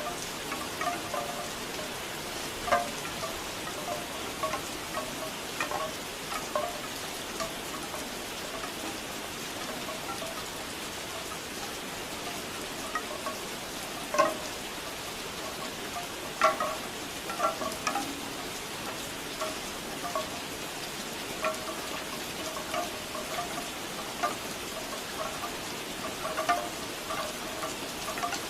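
Bamboo wind chimes clacking in irregular hollow knocks over steady rain, sparse at times and busier near the end.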